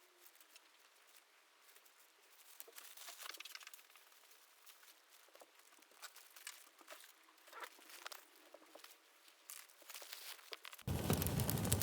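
Faint, irregular crackling and crinkling from a small fire. About eleven seconds in it switches suddenly to a loud, steady rushing noise of a fire burning.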